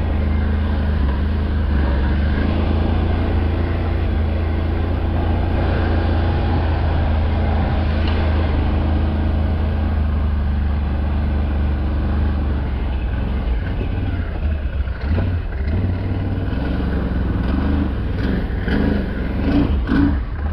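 A motor vehicle's engine running steadily with a deep, low rumble; the sound turns more uneven over the last several seconds.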